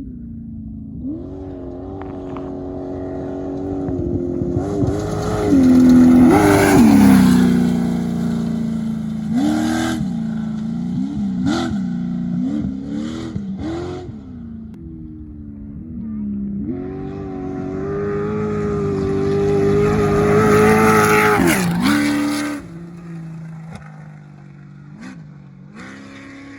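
Two off-road race vehicles, trophy trucks or Class 1 buggies, accelerating hard past one after the other: each engine rises to a loud peak and then drops in pitch as it goes by. The first passes a few seconds in and the second near the end, with a few sharp pops in between.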